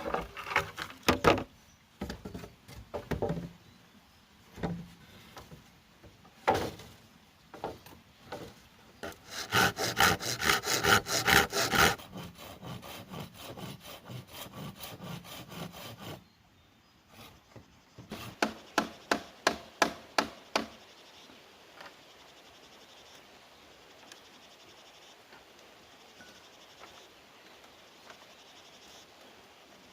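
Bamboo being worked by hand: bursts of rapid, sharp wooden knocks and chops. They come in clusters at the start, a dense fast run of about five strikes a second in the middle, a quieter regular stretch after it, and another run of knocks about two-thirds through. After that only a faint steady background remains.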